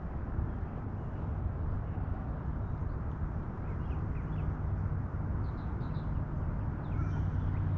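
A steady low rumble with a low hum, and a few faint, short bird chirps over it.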